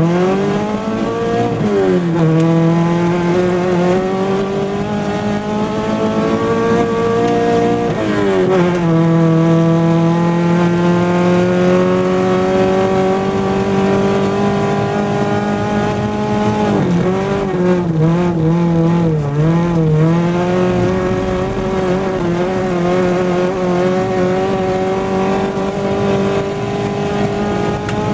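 Rally car engine heard from inside the cabin, pulling hard on a gravel road. Its pitch climbs and drops sharply at gear changes about two and eight seconds in, then rises slowly, wavers with quick throttle lifts for a few seconds past the middle, and holds fairly steady near the end.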